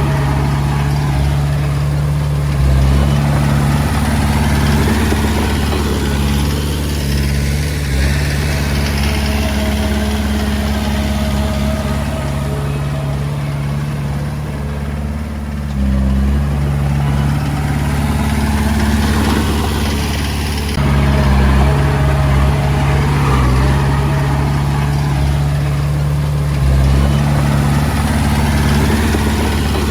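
Diesel engine of a Komatsu D20A bulldozer running continuously, its low hum stepping up and down in pitch and level every several seconds as the load on it changes.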